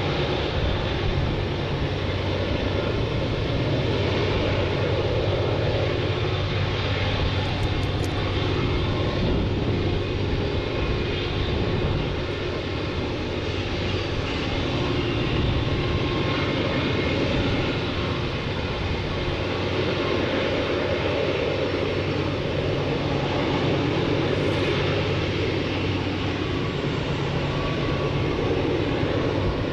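A steady engine drone with a low hum, unbroken and even in level throughout.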